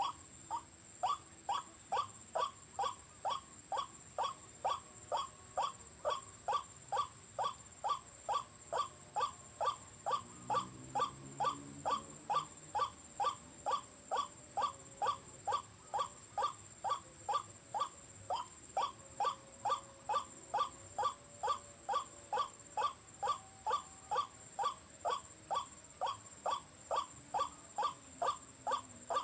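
Recorded white-breasted waterhen call played from a bird-call player as a lure: one short, harsh call repeated evenly, about two and a half times a second, without a break.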